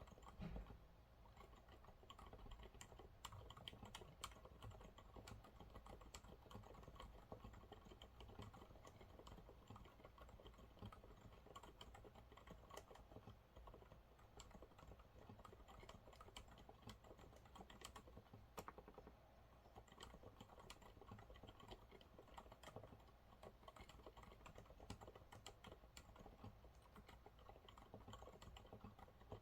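Continuous, quick typing on a Monsgeek MG108W keyboard with TTC silent brown (low-noise tactile) switches: a steady patter of quiet, soft key presses.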